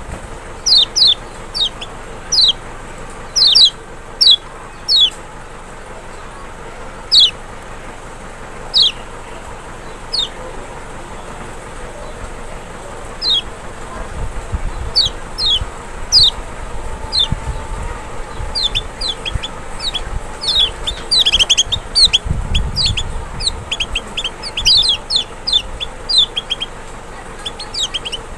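Lemon-bellied white-eye (the Lombok Kecial) calling: short, sharp chirps that slide downward, scattered at first and then coming in quick runs in the second half.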